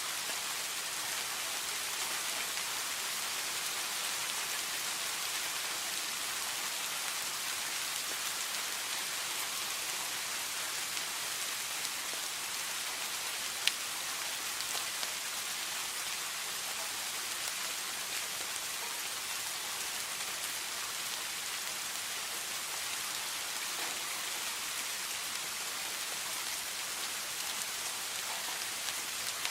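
Steady rain falling, an even hiss of many small drops, with one sharp tick of a single drop about halfway through.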